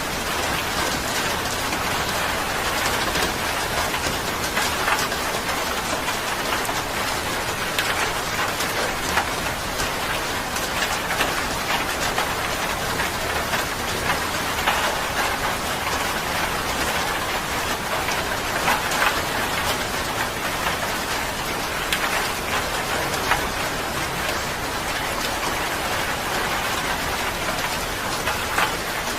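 Steady rain falling on a surface, a dense even hiss with many small drops pattering.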